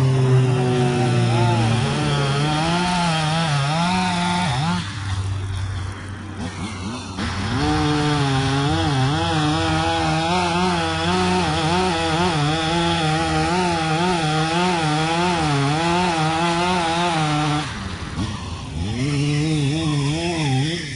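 Echo two-stroke chainsaw running at high throttle while cutting wood, its pitch wavering under load. It eases off twice, about five seconds in and again near the end.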